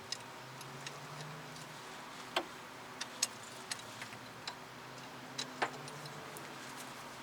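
Irregular light metal clicks and clinks, a dozen or so spread over several seconds with a couple of sharper ones, from hand tools and fasteners being handled during suspension reassembly.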